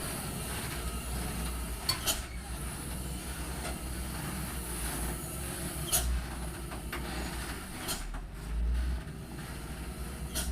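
Loaded Hino diesel truck running low and steady as it creeps downhill, with a few sharp knocks and clanks from the body and load, and a short louder low swell near the end.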